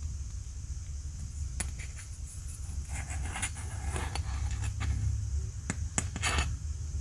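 Small clicks, taps and short scrapes of hands handling a sixth-scale action figure and its packaging, scattered from about a second and a half in and bunching into a quick run near the end, over a steady low hum and hiss.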